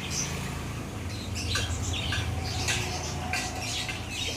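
Small birds chirping and squawking in many short, high calls, some gliding in pitch, over a steady low hum.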